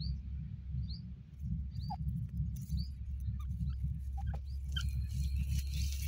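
A bird gives short, high, rising chirps about once a second, with scattered lower chirps later, over a steady low rumble. Near the end a rustling hiss sets in as the dust-bathing partridges flick soil with their wings.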